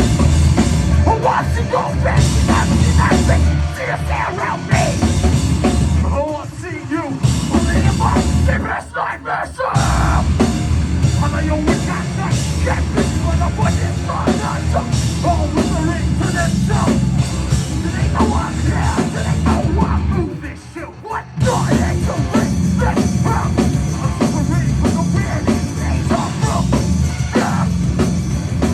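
Heavy metal band playing loudly, with yelled vocals over drums. The music breaks off briefly about two-thirds of the way through, then crashes back in.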